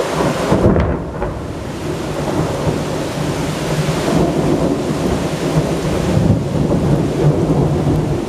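Thunder rumbling on and on, with a sharper, louder crack about half a second in, over steady rain during a strong thunderstorm.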